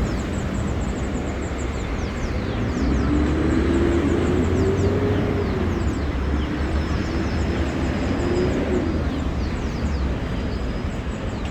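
Street traffic in the rain: a motor vehicle passes close by with a steady engine hum that wavers in pitch for several seconds, over a constant hiss and low rumble of rain and traffic on the wet road.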